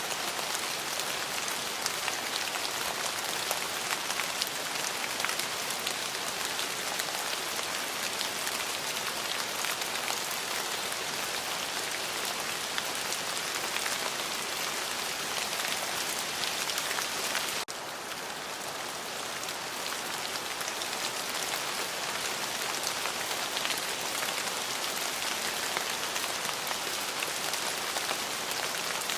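Steady rain falling, a dense even hiss flecked with fine clicks of individual drops. A little past halfway the sound dips suddenly and slightly, then builds back up over a few seconds. No thunder is heard.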